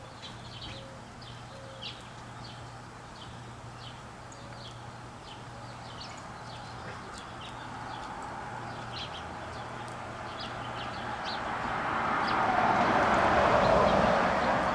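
Sparrows chirping in short, rapid calls throughout. A rushing noise swells steadily and becomes the loudest sound near the end.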